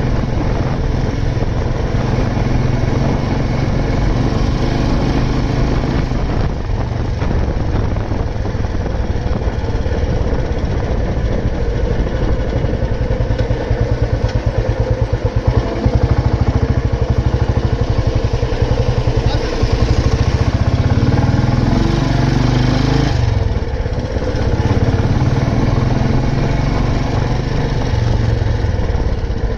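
Old Royal Enfield Bullet 350's single-cylinder engine running steadily under way, its note shifting with the throttle a couple of times.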